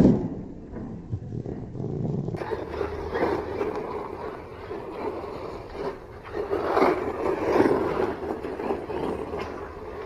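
Electric 1/10 RC monster truck driving, its brushless motor and tyres rising in several surges as the throttle is worked, after a loud thud at the very start.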